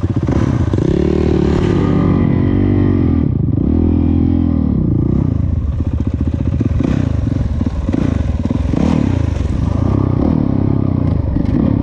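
Dirt bike engine being ridden, revving up and falling back again several times as the throttle opens and closes.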